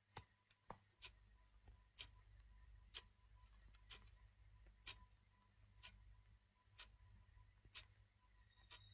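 Faint clock ticking, about one tick a second, over a low steady hum.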